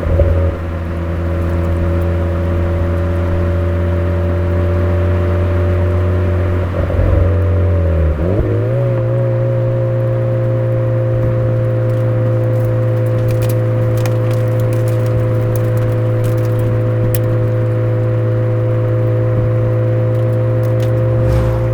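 Suzuki Swift Sport ZC33S's 1.4-litre turbocharged four-cylinder with a Fujitsubo aftermarket exhaust, running on a downhill road with a steady drone. The engine note shifts at the start and again about eight seconds in, as with a gear or throttle change, then holds steady. Light clicks and rattles come through in the second half.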